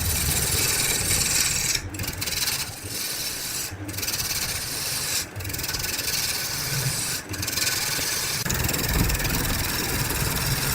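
Wood lathe spinning a workpiece while a turning tool scrapes against the wood: a steady rasping cut over the motor's hum, breaking off for a moment several times as the tool is lifted.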